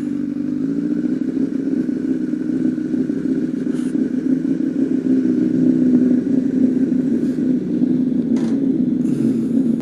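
Honda CBR1000RR Fireblade's inline-four engine idling steadily, with a few faint clicks over it.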